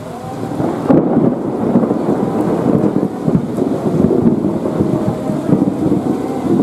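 Electric multiple unit (EMU) suburban train approaching along the track, a loud, uneven low running noise with irregular knocks that grows louder about a second in, over steady heavy rain.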